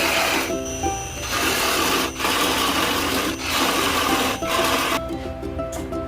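Wood spinning on a lathe being worked by a tool or abrasive, a loud rushing scrape with a few short breaks, over background music. The scraping stops about five seconds in, leaving only the music.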